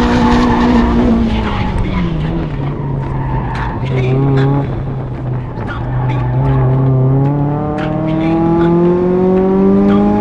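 A 1999 Mazda Miata's 1.8-litre four-cylinder, with an aftermarket header and Borla exhaust, heard from inside the open cabin during an autocross run. The revs drop about a second in, stay low through a slow section, then climb steadily over the last four seconds. Tires squeal as the car slides.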